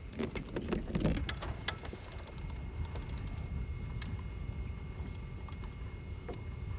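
Steady low rumble of wind and water around a small fishing boat, with scattered light clicks and taps of fishing tackle being handled. A faint steady high tone runs underneath.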